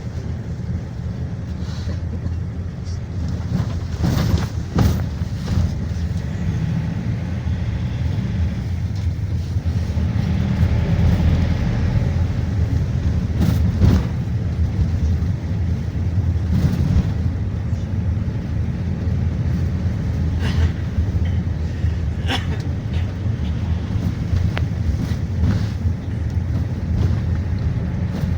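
Inside a GAZelle Next minibus on the move: a steady low rumble of engine and road noise, broken by a few short knocks and rattles from the cabin.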